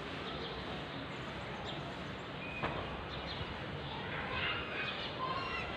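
Small birds chirping in short calls that grow more frequent from about four seconds in, over a steady outdoor background hiss. A single sharp click sounds near the middle.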